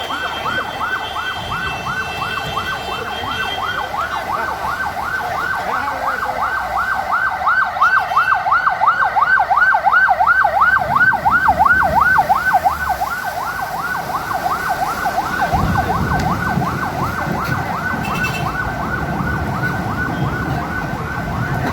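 Siren sounding in a fast warble, its pitch sweeping up and down about three times a second without a break. A low rumble joins about fifteen seconds in.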